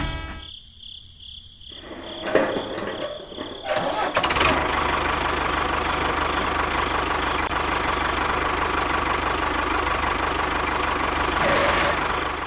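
A few knocks, then an engine starts about four seconds in and runs steadily.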